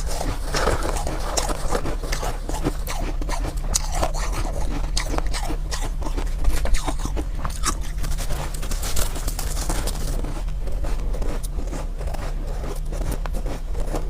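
Close-up biting and crunching of soft ice, many irregular crisp crunches as it is chewed, over a steady low hum.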